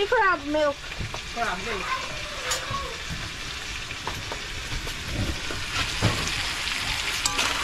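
Crab pieces sizzling and frying in a large metal pot, stirred with a metal spoon that knocks against the pot now and then.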